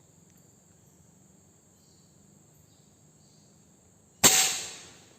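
Insects chirring steadily in a high tone. About four seconds in comes a single sharp, loud shot from a PCP air rifle, which fades over most of a second.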